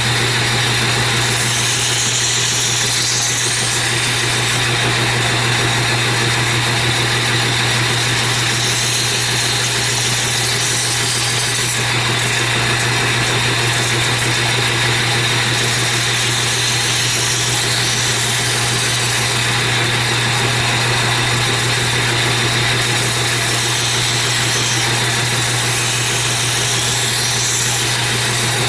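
Belt grinder running at slow speed with a 120-grit belt, grinding the edge of a straight razor blade: a steady motor hum under the hiss of steel on the abrasive belt. The edge is being thinned until a burr forms.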